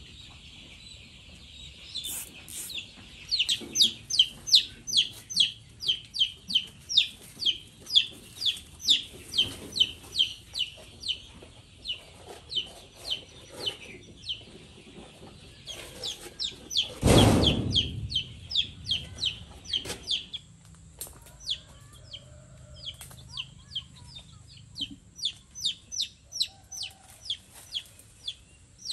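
A bird calling in a long series of short, high chirps, about three a second, fading somewhat toward the end. About 17 seconds in there is one loud, brief noise.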